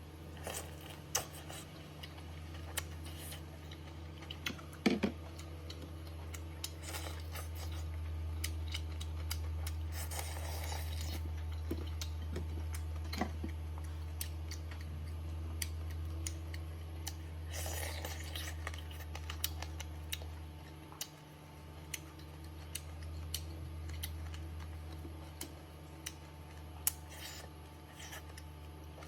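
Someone eating boiled chicken: scattered small clicks and a couple of brief rustling noises from handling and chewing the food, over a steady low hum.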